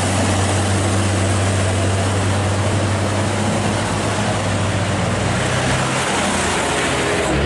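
Heavy truck's diesel engine running loud and steady close by, its pitch shifting slightly about two-thirds of the way through.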